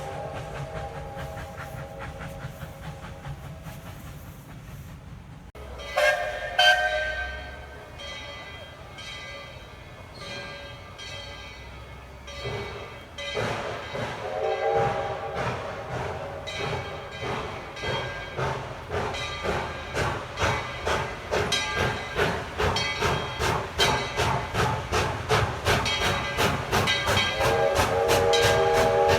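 Steam locomotive whistling and working: whistle blasts about six seconds in and again around thirteen seconds in, then a long blast near the end. Its exhaust chuffs grow steadily quicker and louder from about halfway, as the train picks up speed.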